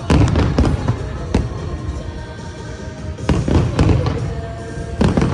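Harbour fireworks display: shells bursting in loud, sharp bangs, several in a row with a clustered volley in the middle, each followed by a rumbling, crackling tail.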